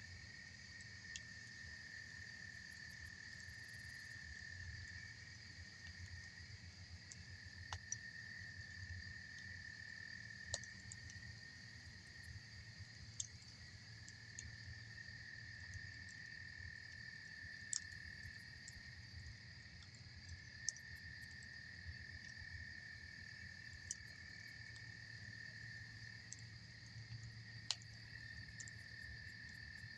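A faint, steady chorus of insects trilling on two high pitches, over which the campfire's burning wood gives a sharp pop every few seconds, about six in all.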